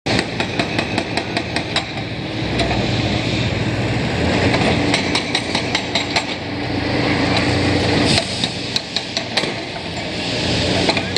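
Demolition breaker hammering at about four blows a second, in spells, over the steady running of a diesel engine.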